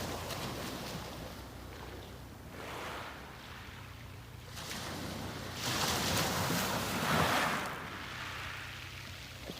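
Sea waves breaking and washing up a beach in slow swells. The loudest wave breaks about six seconds in and rushes for about two seconds.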